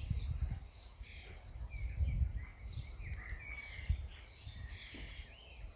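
Birds chirping and whistling in many short calls, over a low wind rumble on the microphone.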